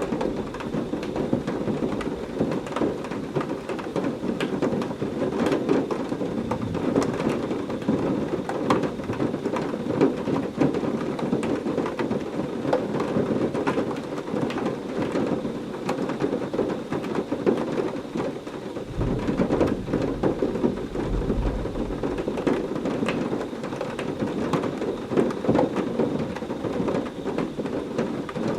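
Heavy rain pouring steadily in a thunderstorm. A low roll of thunder rumbles in about two-thirds of the way through and fades a few seconds later.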